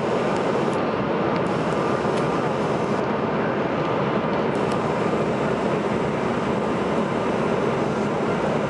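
Steady engine and airflow noise inside the cabin of a CRJ-900 regional jet, its rear-mounted GE CF34 turbofans running, with a few faint ticks.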